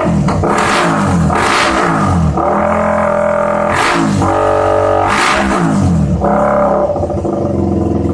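Suzuki Raider 150 single-cylinder four-stroke engine breathing through an aftermarket exhaust pipe, revved in about four quick throttle blips that fall back each time to a droning idle.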